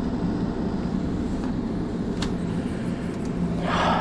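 Carrier air handler's blower running in the attic, a steady hum and rush of air with a constant low tone. A brief rustle of handling near the end.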